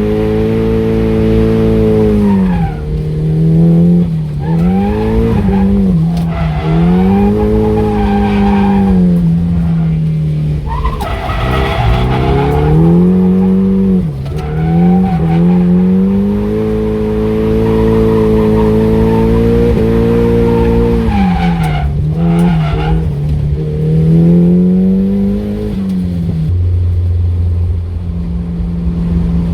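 Nissan S15 Silvia drift car's engine revving up and dropping off over and over while drifting, with tyre squeal and skidding hiss mixed in, loudest about 11 to 13 seconds in and again around 22 seconds. Near the end the engine settles to a steady, even note.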